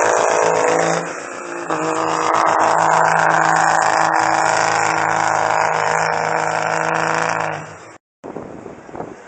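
Turbocharged diesel pickup engine running at high revs under full load while pulling a sled, holding a steady pitch. About a second in it eases off briefly, then comes back loud and stays steady. Near the end it fades and cuts off.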